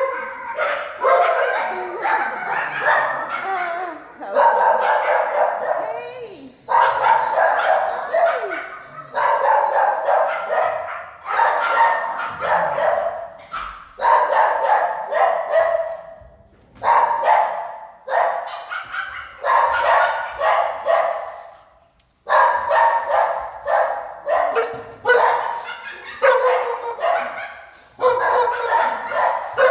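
Shelter dogs barking loudly and almost without a break. The barks come in waves of one to two seconds, with short pauses between them.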